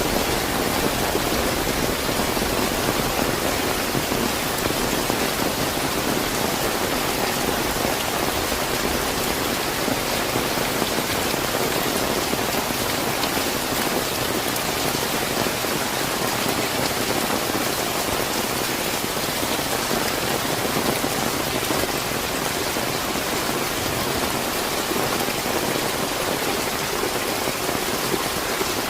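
Steady, fairly heavy rain falling and pattering on surfaces, an even hiss with no thunder or other distinct events.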